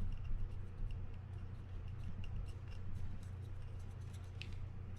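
Light clicks and taps of small metal reel parts being handled while the bottom drag plate of a Fin-Nor Offshore 4500 spinning reel is worked out, over a steady low hum.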